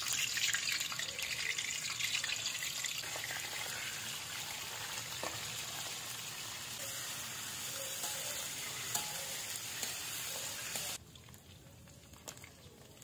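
Diced meat sizzling in hot oil in an aluminium wok, with a few clinks of a metal slotted turner stirring it. The sizzle drops sharply quieter about eleven seconds in.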